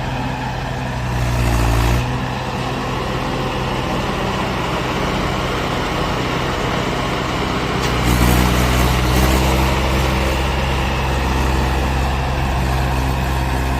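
Diesel tractor engine running steadily, swelling briefly after about a second and getting louder and deeper about eight seconds in.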